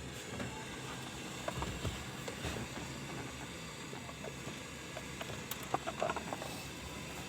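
Faint scattered clicks and taps of hand tools on metal, the battery terminal being refitted and tightened, over a steady low background noise.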